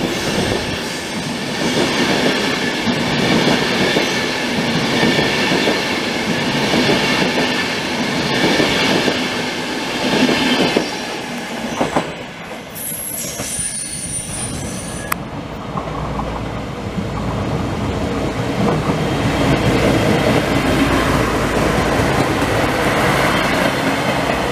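ÖBB Railjet coaches rolling past a platform, with steady wheel squeal and rail clatter. About halfway through it cuts to quieter train noise. From about two-thirds in, a low rumble builds as an ÖBB Desiro diesel railcar runs close by.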